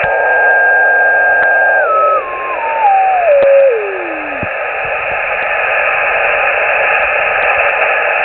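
Shortwave radio receiver hissing with band static, with a steady beat whistle that falls in pitch in small steps from about two seconds in and cuts off about halfway through, as on an unmodulated carrier being tuned across. Then plain static.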